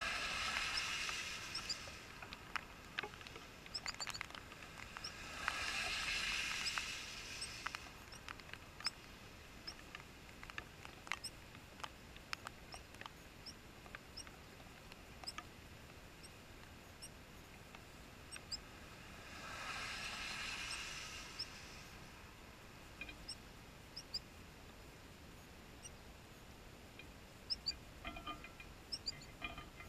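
Rain dripping and tapping in scattered clicks, with faint high bird chirps throughout and three swells of hiss: at the start, around six seconds in and around twenty seconds in.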